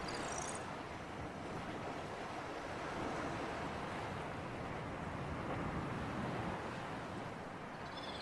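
Sea surf and breeze: a steady wash of waves that swells gently a couple of times. A few brief high chirps sound at the start and again near the end.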